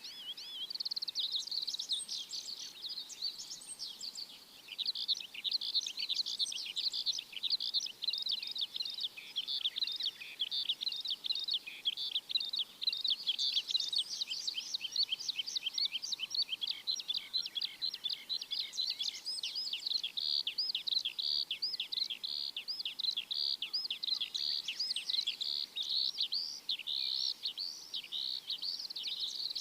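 Many small birds chirping in a dense, continuous chorus of rapid, high-pitched chirps.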